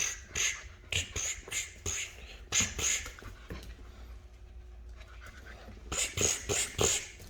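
Rottweiler puppies playing and mouthing: quick, breathy, noisy bursts about three a second, in two spells with a quieter stretch between.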